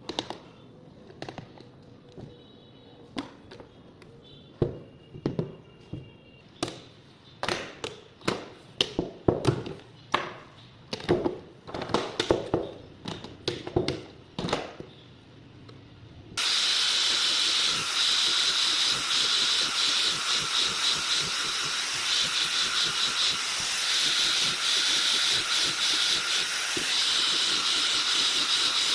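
Light knocks and taps on wood, coming faster midway. About two-thirds of the way through, a power tool starts abruptly and runs steadily with a loud hissing whir.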